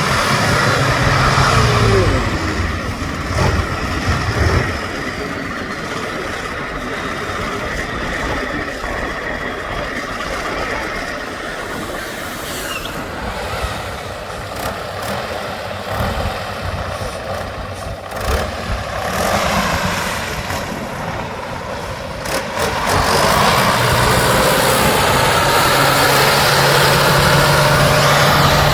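Heavy truck engine running: loud and steady for the first few seconds, quieter through the middle, then swelling up again about two-thirds of the way through and holding a steady note.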